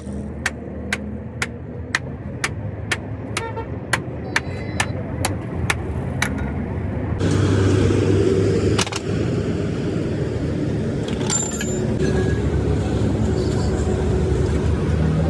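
Road traffic and running engines, with sharp, evenly spaced ticks about twice a second over the first five seconds or so. From about seven seconds a louder rush of passing traffic.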